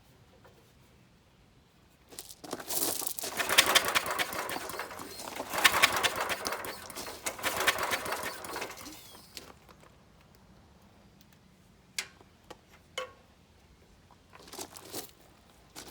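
Small gasoline engine of a portable air compressor being cranked over by its recoil pull cord, several pulls in a row, each a fast rattling whir, without the engine catching. Two sharp clicks and a short rattle follow near the end.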